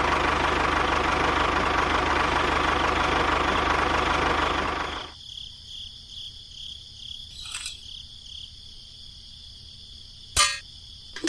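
A small motor runs steadily, then cuts off about five seconds in, leaving a faint high hum, with a short knock near the end.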